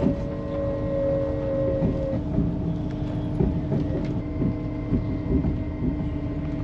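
Running noise inside a moving train carriage: a steady rumble of the wheels on the track, with a steady hum and scattered light knocks from the rails. One higher hum tone stops about two seconds in.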